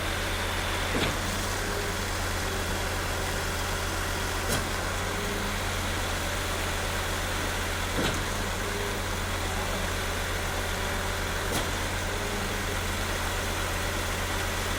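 A motor running steadily with a low hum, with a short click about every three and a half seconds.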